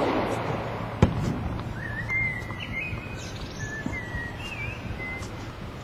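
Birdsong: a songbird's series of short warbling, gliding phrases. It sits over steady outdoor noise. About a second in there is a single sharp knock of a tennis ball being struck.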